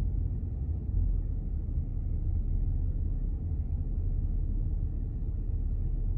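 Car running at low speed, a steady low rumble of engine and road noise with no sudden events.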